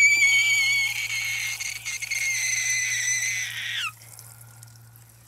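A high-pitched scream held for about four seconds, dropping in pitch as it cuts off. Under it, water from a watering can splashes onto a shrub.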